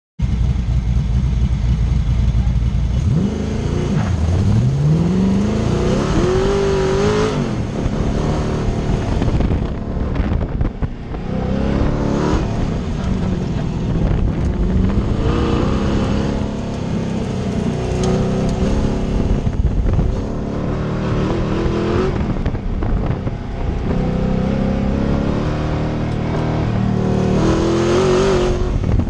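Autocross race car's engine pulling hard through a timed run. It holds a low, steady note for about three seconds, then launches, with the pitch rising, dropping back and rising again again and again as the driver accelerates, lifts and brakes between the cones.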